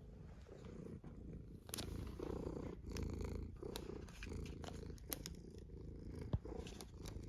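A domestic cat purring close up: a low rumble that swells and eases with each breath, with a few light clicks over it and one sharper click near the end.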